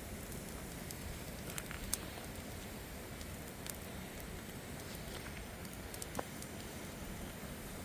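Wood campfire crackling, with scattered sharp pops over a steady low hiss.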